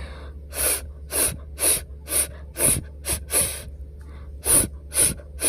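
A voice repeatedly blowing the voiceless 'fff' sound of the letter F, short breathy hisses about two a second, with a brief pause partway through.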